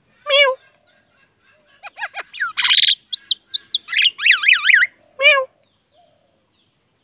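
Common myna calling: a pitched call near the start and the same call again about five seconds later, with a varied run between them of a harsh rasp, two looping whistles and a fast wavering warble.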